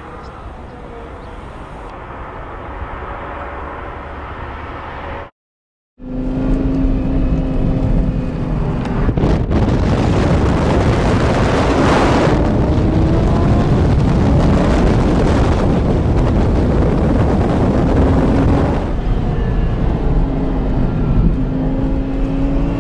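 Lexus LFA's V10 engine being driven hard, its note rising and falling as it accelerates and eases off. It is quieter for the first five seconds, drops out for about half a second, then comes back louder as heard from inside the car, loudest in the middle stretch.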